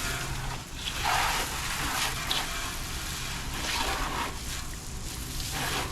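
Water spraying from a hose onto a vehicle in several separate bursts, with a low steady hum underneath.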